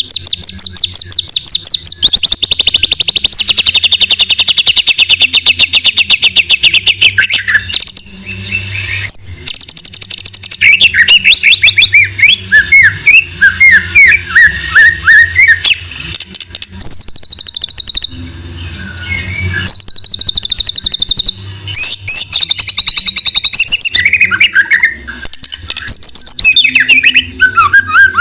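White-rumped shama (murai batu) singing a loud, varied song: long runs of rapid repeated trill notes, series of sweeping chirps and high whistled phrases, with only a few brief pauses.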